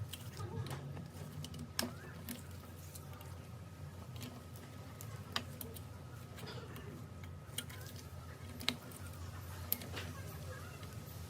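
Irregular light clicks and taps of small tool and drill parts being handled on a workbench, about ten of them scattered through, over a steady low hum.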